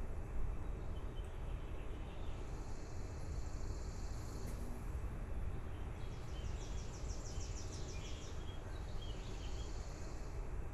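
Baby birds chirping in high, rapid series of calls, in two runs in the middle, over a steady low rumble of background noise.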